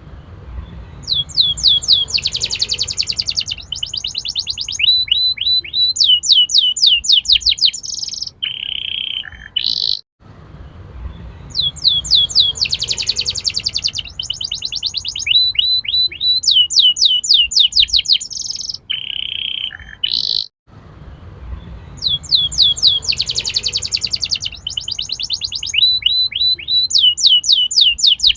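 Domestic canary singing a loud, fast song of rapid down-sweeping trills, buzzy rolls and held notes. The same phrase sequence, about ten seconds long, repeats three times with short breaks, as a looped lure recording played to get young canaries to roll and sing.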